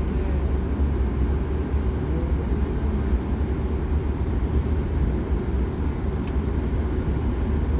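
Steady low rumble of a car driving on the road, with a brief high tick about six seconds in.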